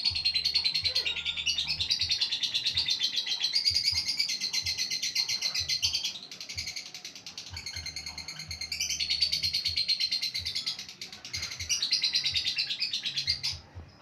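Caged songbirds kept together as a group chirping in a fast, continuous trilling chorus, fading somewhat in the middle and breaking off just before the end.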